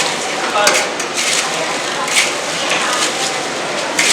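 Kitchen utensils clinking and knocking against a pan or dish, about five sharp strikes a second or so apart, over a steady hiss.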